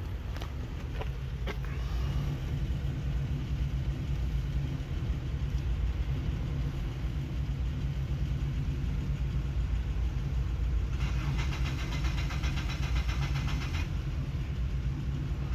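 A 2001 Mercedes-Benz C320's 3.2-litre V6 running steadily after valve and timing work. For about three seconds near the end, a fast, even, high ticking sounds over it.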